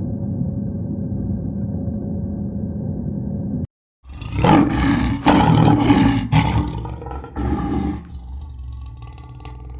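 A large animal roaring: after a steady low rumble and a brief drop to silence, a loud roar comes in about four pulses, then fades to a quieter, lower sound near the end.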